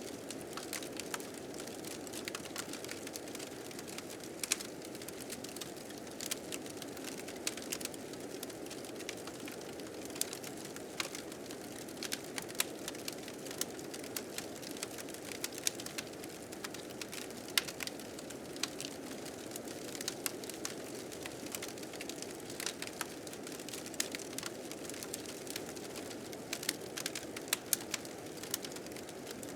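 A wood fire crackling with frequent sharp, irregular pops, over the steady low rush of blizzard wind.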